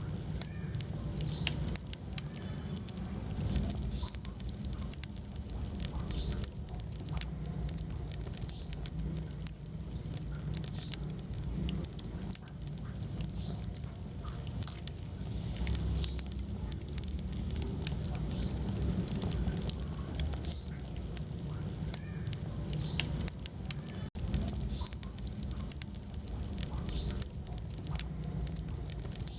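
Wood fire burning in a fireplace, crackling with frequent small pops over a low steady rumble of the flames.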